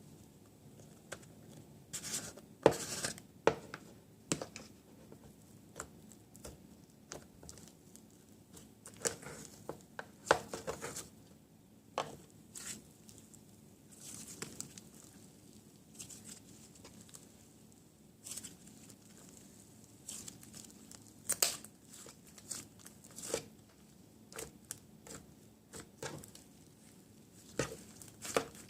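Packaging being torn and crinkled by hand in short, irregular bursts, as a slime mystery box is unwrapped.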